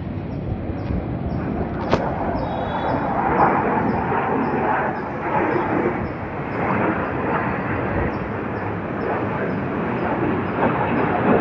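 Steady roar of military jet aircraft flying overhead, a loud rushing rumble that holds with small swells.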